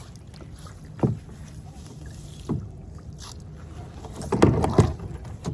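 Hollow knocks on a kayak's hull, one about a second in, another a second and a half later, and a louder cluster of knocks near the end, over steady low background noise.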